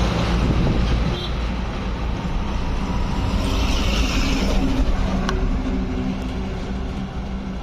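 Heavy truck traffic: a truck engine running with a steady low drone and road noise, and a hiss that swells and fades about three to four and a half seconds in.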